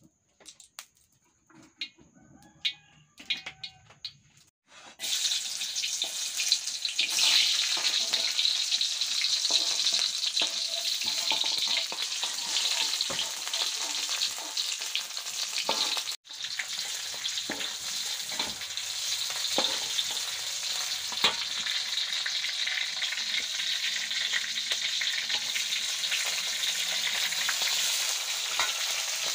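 Sliced garlic and lemongrass sizzling in hot oil in a wok, with a metal spatula stirring and scraping. A few light clicks come before the sizzling starts loudly about five seconds in. It cuts out for an instant about halfway through.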